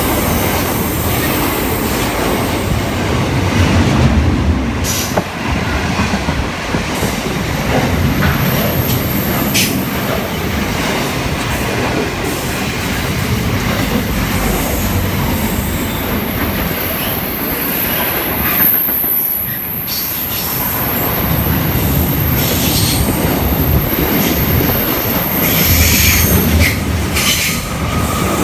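Container wagons of a freight train rolling past close by: continuous wheel and rail rumble with irregular knocks from the wheels over the rail joints. A high, steady wheel squeal rides over it from about eight seconds in until near the end.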